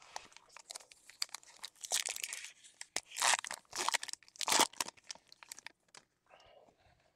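A trading-card pack's foil wrapper being torn open and crinkled, in several irregular rustling bursts with sharp clicks.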